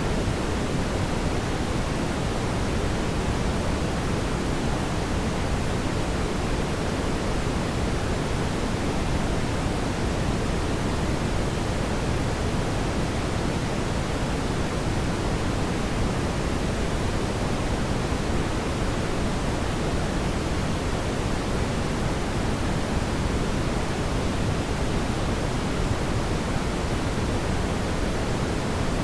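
Steady, even rushing noise of a fireplace fire, fullest at the low end, with no distinct crackles or pops.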